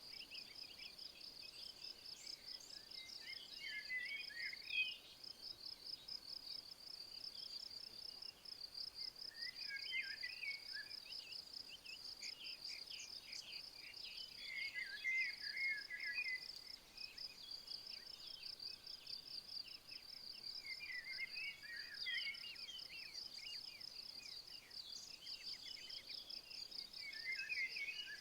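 A cricket or bush-cricket trilling steadily in a high, fast pulse. A songbird sings a short phrase of quick chirps about every five to six seconds, five phrases in all.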